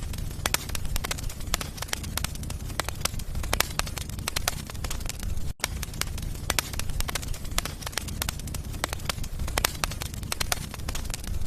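Wood fire in a fireplace crackling, with frequent irregular snaps and pops over a steady low rumble of the flames. The sound cuts out for a moment about halfway through.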